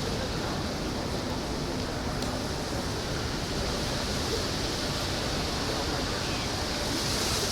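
Wind buffeting the microphone: a steady rushing noise with a constant high hiss over it.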